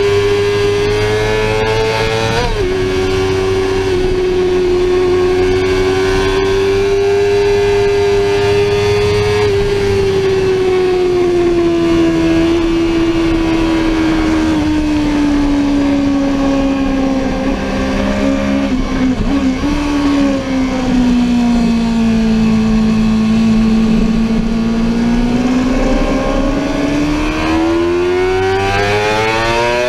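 Sportbike engine at high revs on a track lap. There is a brief dip in pitch about two and a half seconds in. The pitch then sinks slowly over about fifteen seconds and climbs quickly again near the end as the bike accelerates.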